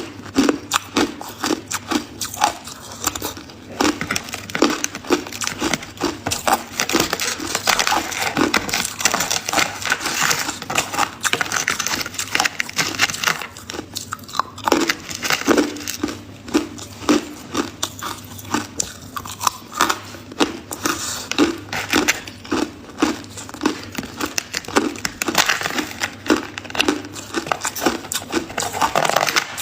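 Ice being chewed close to the mouth: loud, rhythmic crunching and crackling at about two chews a second, with a short lull near the middle.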